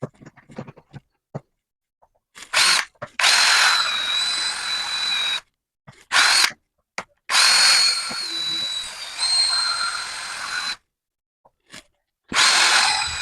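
Cordless drill boring small holes into a cast-iron swivel bench vise, run in five bursts: two brief pulses and two longer runs of two to three seconds with a steady high whine, the last starting near the end.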